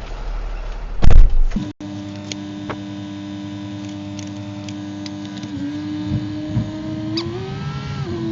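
A loud thump about a second in, then a steady mechanical vehicle hum whose pitch rises and dips back briefly near the end.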